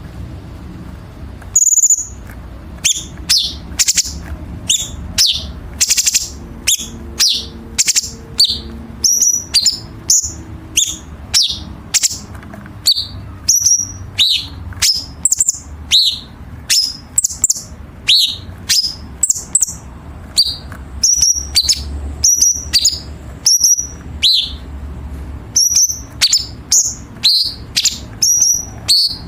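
Cucak cungkok singing a dense run of sharp, harsh high notes, about two a second, many sweeping quickly down in pitch, over a faint low hum.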